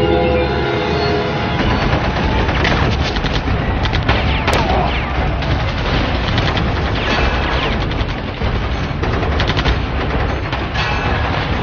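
Dense, continuous rapid gunfire with music underneath.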